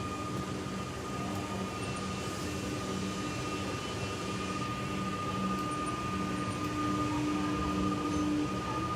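Electric suburban trains at a station platform: a steady electrical hum with held tones, and an arriving train's motor whine starting to rise near the end.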